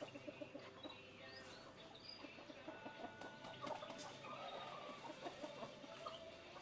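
Faint clucking of chickens.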